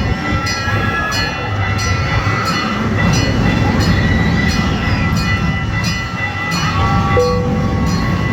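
Small gas-powered replica train running along its track, with regular clacks from the rail joints about two to three a second over a low engine rumble and a steady high whine.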